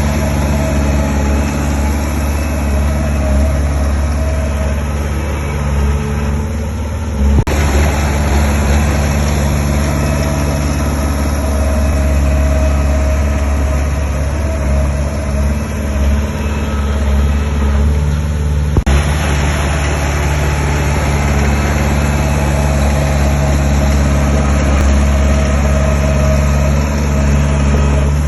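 Heavy diesel engine of construction machinery running steadily with a strong low hum. The sound changes abruptly twice, about 7 and 19 seconds in.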